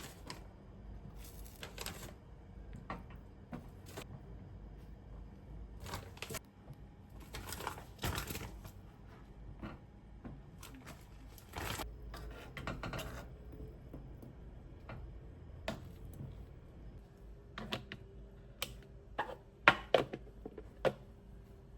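Irregular clicks, taps and brief rustles of small objects being handled, with a few sharper, louder knocks near the end.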